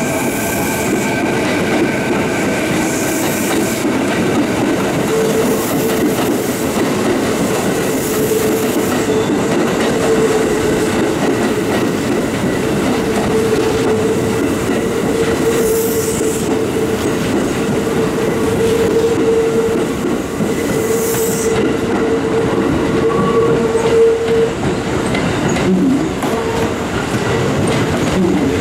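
Kintetsu electric trains moving slowly through the station's points: wheels clattering over switches and rail joints. A steady whine runs through much of it, with short hisses now and then.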